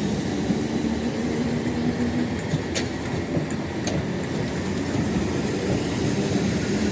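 A train running at a station: a steady low engine drone with a hum that eases about a third of the way in and comes back near the end, and two short sharp clicks in the middle.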